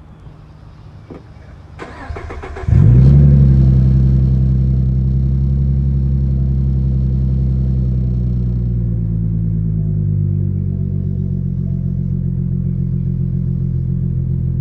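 2015 Ford Mustang's 3.7-litre V6 with its mufflers deleted, cold-starting: the starter cranks for under a second, the engine catches about three seconds in with a loud flare, then runs at a fast cold idle that slowly settles and quiets.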